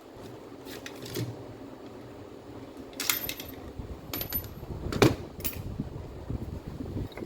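Irregular metallic clicks and knocks, like small parts or tools being handled and set down on a hard surface. The loudest knock comes about five seconds in.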